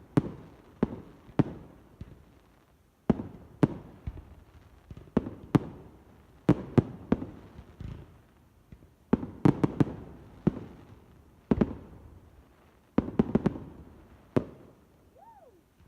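Fireworks display: aerial shells bursting with sharp bangs at irregular intervals, sometimes several in quick succession, each trailing off in a short echo.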